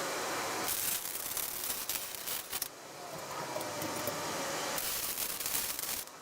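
Lincoln 180 Dual wire-feed welder's arc crackling in two runs of about two seconds and one second, laying weld passes to build up material on an exhaust X-pipe.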